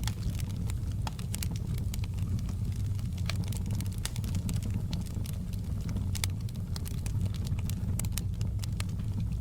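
Fireplace crackling: irregular sharp pops and snaps over a steady low rumble of burning logs.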